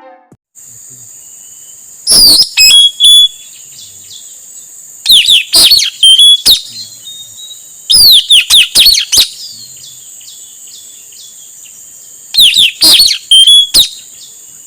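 Male blue-rumped parrot (puling, nuri tanau) giving four bouts of loud, shrill, sharply falling whistled calls a few seconds apart, over a steady high insect drone.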